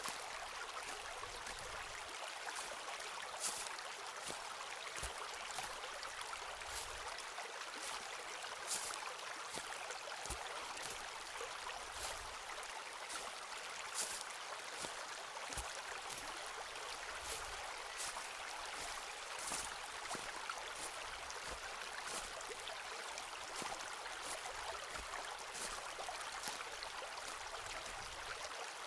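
Footsteps walking along a forest path, irregular crisp crunches and soft thuds every second or two, over a steady rush of flowing water.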